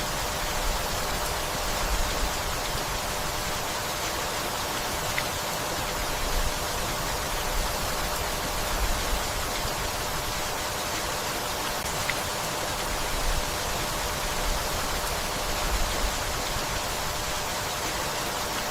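Steady, even rainfall over a forest, with the odd single drop standing out now and then.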